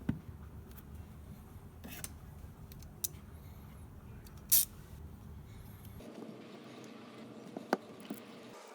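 Scattered small handling sounds: a few sharp clicks and short rustles or scrapes over a low background hum, the loudest a brief scrape about halfway through.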